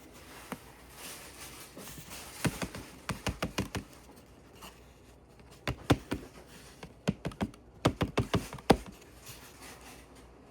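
Sharp little plastic clicks and taps in quick clusters as thin guitar picks pry at the snap-fit shell of a Z-scale locomotive to lift it off the chassis.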